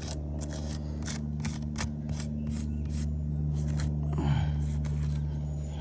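A rapid series of sharp clicks, about three a second, lasting some four seconds over a steady low hum.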